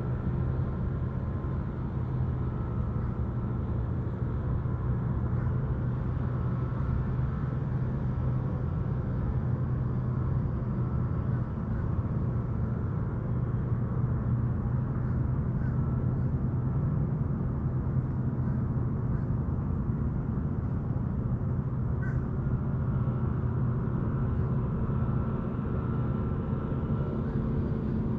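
A boat engine running steadily, a low even drone with no change in pace. A faint single bird chirp comes through about two-thirds of the way in.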